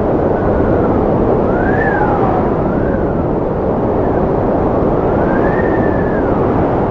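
Strong wind blowing in a steady rush, with a whistling howl that rises and falls in pitch several times, about once every second or two.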